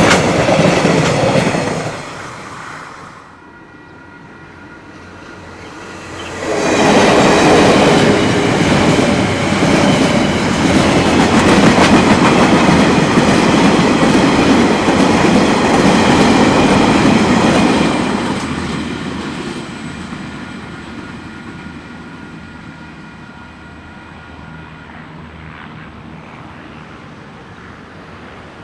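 A train running past on the rails: loud wheel-on-rail noise at the start, a dip, then a loud stretch of about ten seconds that fades away over the last third.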